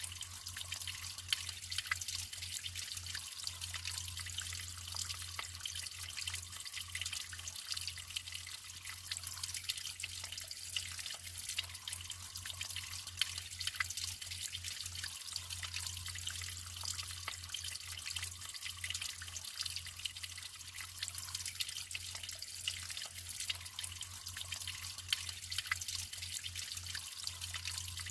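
Natural water flowing and trickling: a steady splashing patter of many small drips and splashes.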